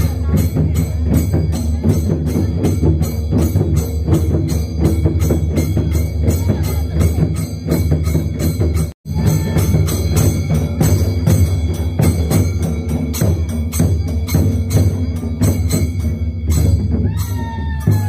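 Procession band playing: heavy, steady drumming under fast, evenly repeating jingling strikes, breaking off for an instant about halfway through.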